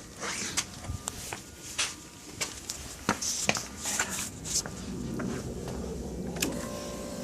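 Handling noises: scattered clicks, knocks and rustling, then a faint steady hum with a thin tone from about five seconds in.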